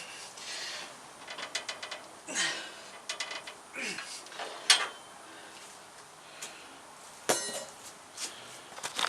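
Hand tools working on a steel exhaust header: scattered metallic clicks and clanks with a few short falling squeaks, and a quick run of rapid clicks about seven seconds in.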